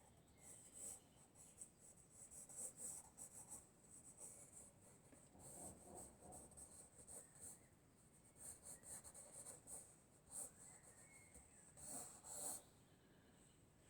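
Faint scratching of a pencil sketching on paper, in short, irregular strokes.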